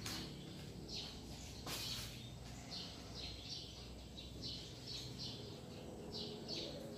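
Small birds chirping over and over, short high downward chirps often in quick pairs, over a low steady hum. A brief rustle about two seconds in.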